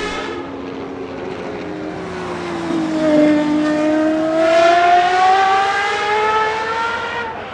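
Gordon Murray T.50's naturally aspirated Cosworth 3.9-litre V12 at high revs. The note sags for a few seconds, then climbs steadily under acceleration and cuts off sharply near the end.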